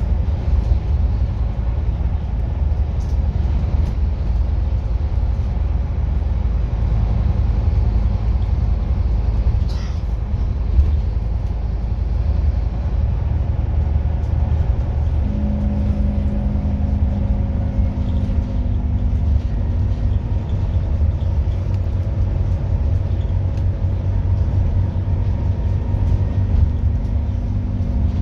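Scania N230UD double-decker bus running with a steady, heavy low rumble. About halfway through, a pitched engine and drivetrain whine comes in and rises slightly as the bus pulls.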